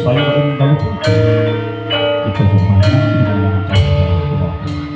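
Live Javanese gamelan-style music: metal mallet instruments ringing sustained notes over deep drum tones, with a sharp struck accent about once a second.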